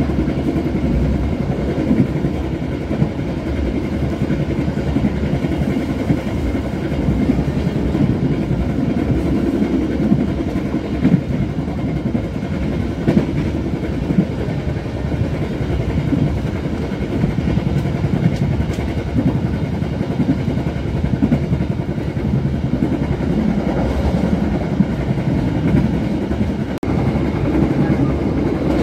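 Bengawan passenger train running at speed, a steady rumble of wheels on the rails with occasional sharper knocks.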